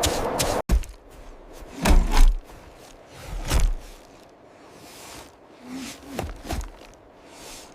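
A few separate dull thuds, the loudest two about two and three and a half seconds in, after a brief rhythmic rubbing that cuts off abruptly near the start.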